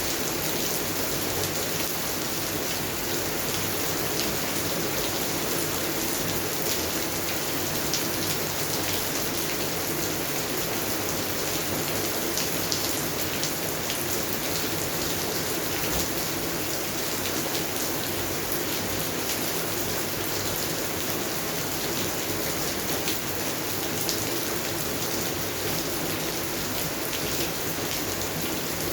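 Steady rain falling on a garden and its plants, an even hiss with many small drops pattering close by.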